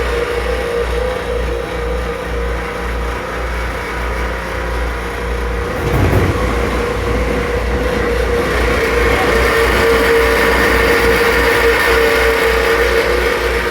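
Mitsubishi Line Delia cross-flow ceiling fan in a Keikyu 1500 series train car, running with very loud noise and an abnormal noise: a steady hum over a rapid low throbbing. There is a brief low thump about six seconds in.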